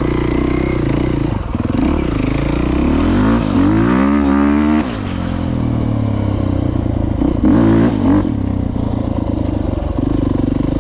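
Dirt bike engines running on a trail ride. The pitch climbs for a couple of seconds near the middle and then falls off sharply as the throttle is cut or a gear is changed, with chassis rattle over the ground.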